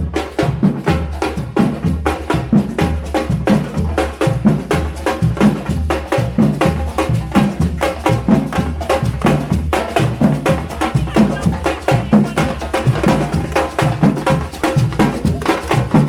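Drum-led percussion music: fast, steady drumming with sharp wood-block-like clacks, several strikes a second.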